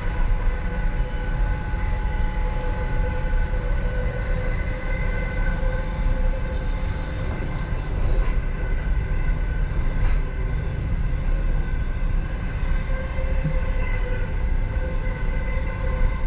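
Passenger train running along the track, heard inside its last car: a steady heavy rumble of wheels on rail with a few faint held high tones and occasional light clicks.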